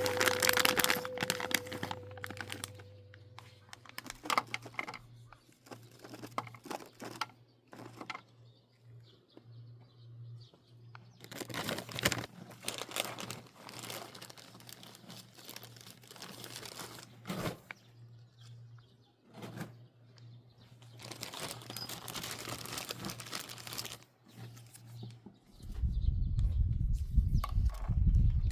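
Intermittent rustling and crinkling over a faint steady low hum, with a loud low rumble starting near the end.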